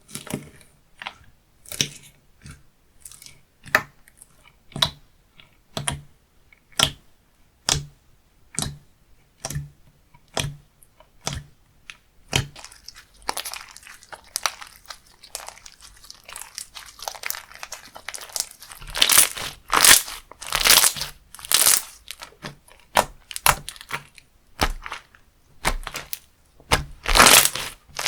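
Slime being pressed and squished by hand, crunching and crackling. Presses come about once a second at first, then from about thirteen seconds in the crackling becomes denser and louder.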